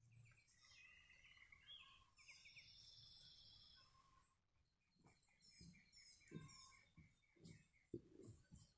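Faint birdsong: several birds chirping and trilling, with a few soft low thumps in the second half.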